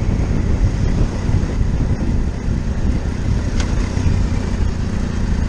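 Motorcycle engine running steadily while riding, a dense low rumble.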